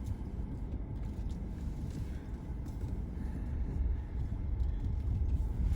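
Car driving slowly on a rough dirt road, a steady low rumble of engine and tyres with a few faint knocks.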